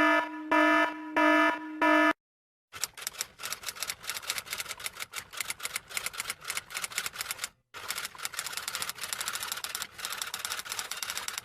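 Four short electronic beeps in a row, then fast, irregular typing clicks of keys that run for about nine seconds with one short break past the middle.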